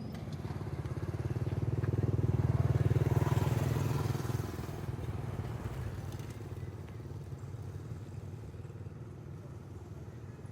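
A motor vehicle's engine passing close by, growing louder over the first few seconds and then fading away.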